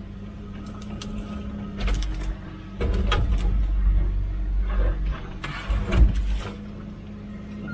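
Komatsu PC16 mini excavator's diesel engine running steadily, with a few louder bursts of noise as it works; the loudest comes about six seconds in.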